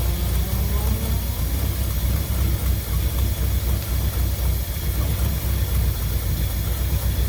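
1963 Mercury's engine idling steadily on its rebuilt Motorcraft 2100 two-barrel carburetor, with a deep, even rumble through an exhaust system that is totally shot.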